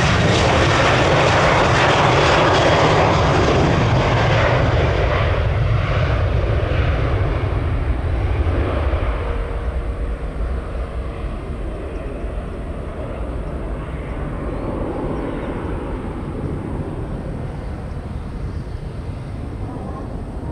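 Jet airliner passing close, its engine noise loud at first, then fading away over about ten seconds to a distant rumble.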